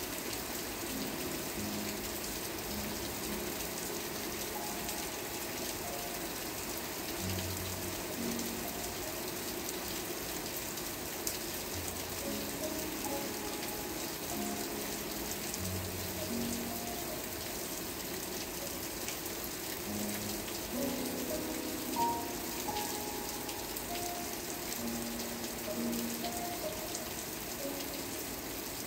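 Steady rain falling, an even patter, with soft slow music of held notes playing over it.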